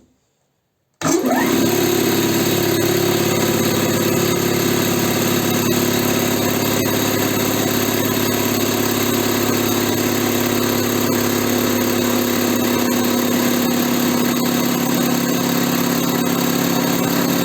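SO-7B piston air compressor starting about a second in and then running steadily under load, pumping up its air receivers on a timed fill after a rebuild with new piston parts.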